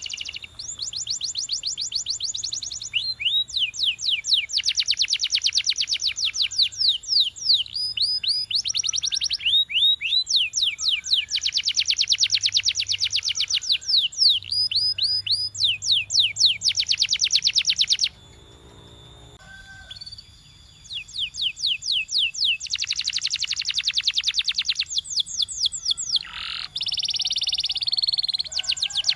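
Canary singing in long rolls of fast, evenly repeated high notes, each roll lasting a few seconds, with a short pause a little past halfway and a held whistled note near the end.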